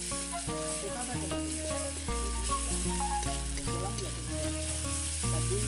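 Ground mustard and garlic paste sizzling in hot oil in a steel wok as a spatula stirs it, a steady hiss. Background music with a deep bass line and changing notes plays over it.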